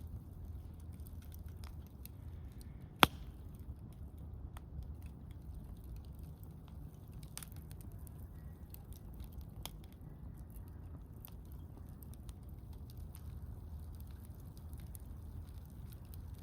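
Wood campfire crackling, with scattered small clicks and one sharp, loud pop about three seconds in, over a low steady rumble.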